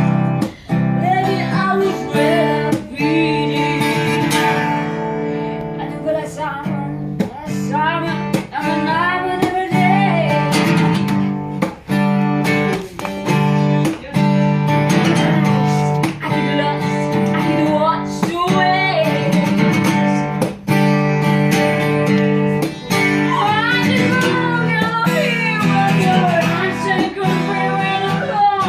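Acoustic guitar music, strummed and plucked, with a voice singing the melody.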